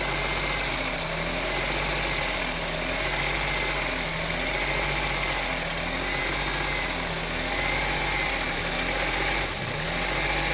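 2002 Honda CR-V 2.4-litre four-cylinder engine idling roughly, its tone wavering up and down in a repeating pattern every second or so. The unstable idle is a fault that a new MAP sensor, purge control solenoid valve and air control valve have not cured.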